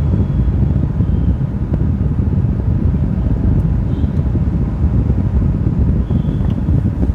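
Car driving at low speed, heard from inside the cabin: a steady low rumble of engine and road noise, with a few brief faint high tones.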